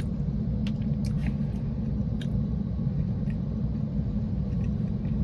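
Steady low rumble of a car running, heard inside the cabin, with a few faint small clicks and taps from eating.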